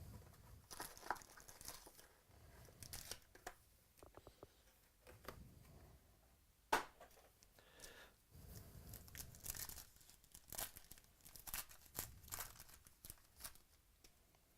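Plastic wrapping and foil trading-card pack wrappers being torn open and crinkled by hand, in irregular crackling strokes, with one sharp snap about seven seconds in.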